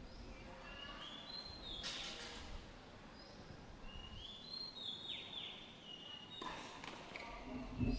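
High whistled bird calls repeat over faint outdoor background noise; some notes are held and some step up or slide down. There is a sharp knock just before the end.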